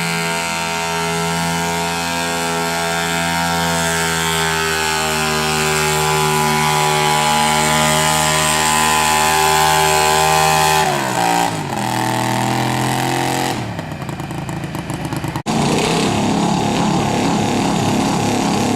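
A garden tractor's engine runs hard at high revs under load during a pull, its pitch sagging slowly. About eleven seconds in the revs drop off sharply, and the engine falls to a lower, rougher running.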